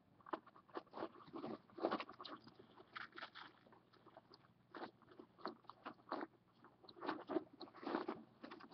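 Irregular small crunching and scratching clicks as a cockatiel shifts about in its nest box, working the chick and eggs under itself.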